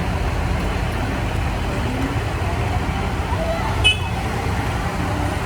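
Tractor engines running steadily with a low rumble, with crowd voices in the background and a short high-pitched beep about four seconds in.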